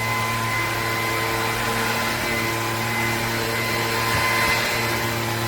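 Bissell PowerClean FurGuard cordless stick vacuum with its 280 W motor running steadily: a constant motor whine over a low hum and rushing air.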